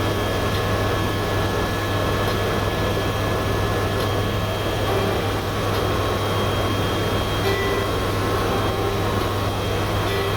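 Steady drone of a tour helicopter in flight, heard from inside the cabin: a constant low hum with a few thin, steady high whine tones above it.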